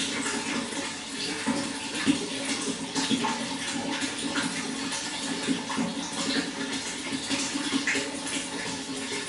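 Running water pouring and splashing steadily, with small bubbling splashes throughout.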